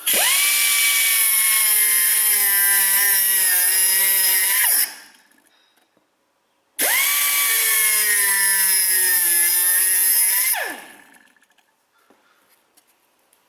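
Pneumatic cut-off wheel (Astro air tool) cutting in two runs, each about four to five seconds long. Each run spins up with a rising whine and loud air hiss, dips slightly in pitch under load as it cuts, and winds down when the trigger is released.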